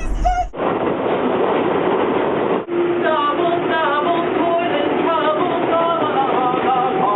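Subway train running, a steady rushing noise that cuts in abruptly about half a second in. From about three seconds in, a wavering singing voice sounds over the train noise.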